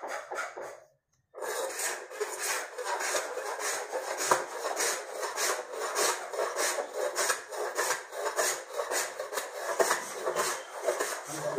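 Sandpaper rubbed by hand over a teak door's wood surface, in quick, even back-and-forth strokes of about three a second: sanding the wood smooth before the sanding sealer coat. The rubbing starts after a brief break about a second in.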